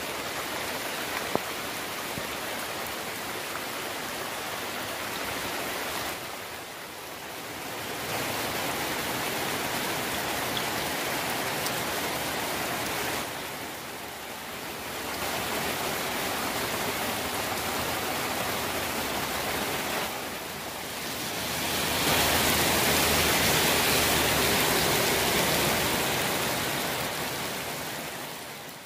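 Heavy rain pouring down in a steady hiss. It dips briefly a few times, swells louder in the last third, then fades out.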